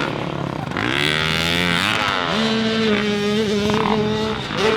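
Dirt bike engines racing on a motocross track. The engine note climbs and falls as the throttle opens and closes, then holds at a steady pitch for about two seconds before dipping briefly near the end.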